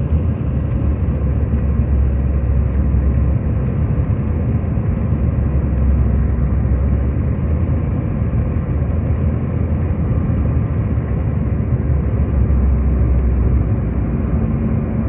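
Airliner landing: a loud, steady low rumble.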